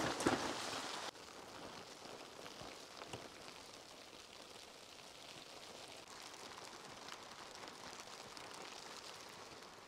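Falling snow pattering softly and steadily with fine ticks, somewhat louder for the first second before settling.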